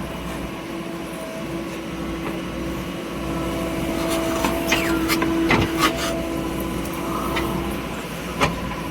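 An engine running steadily, with a few sharp knocks and clatters around the middle and one more near the end.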